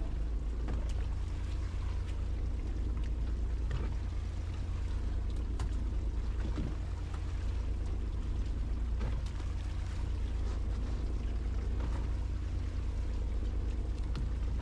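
Fishing boat's engine droning steadily with a deep hum, under a wash of noise and scattered light ticks.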